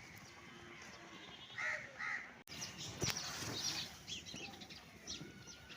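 Short animal calls: two brief pitched calls close together about halfway through, followed by scattered high chirps and clicks.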